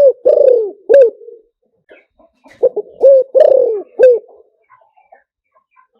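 Spotted dove cooing: two phrases of low coos, each of three or four notes. The first comes at the start and the second about two and a half seconds in.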